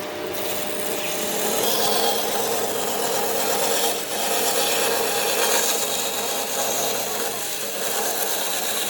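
A power tool abrading wood in a steady, continuous rasping grind, with a brief dip about four seconds in.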